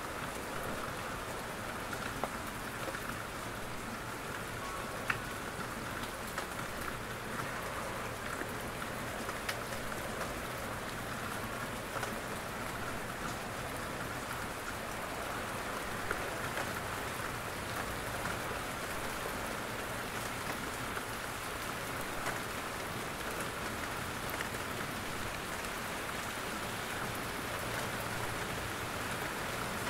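Steady rain falling in a forest, a constant hiss with scattered individual drops falling from the trees.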